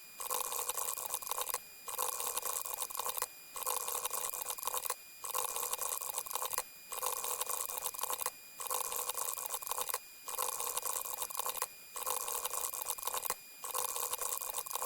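A liquid-pouring sound effect played over and over, each play about a second and a half long, with a short break between plays, about every 1.7 seconds.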